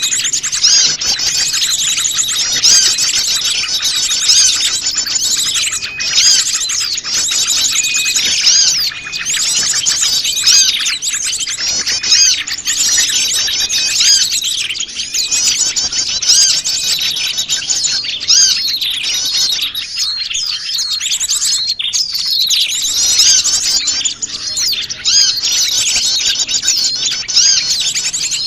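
Mixed chorus of many small wild birds chirping and twittering at once, quick overlapping high calls with no pause, a small-bird lure call recording.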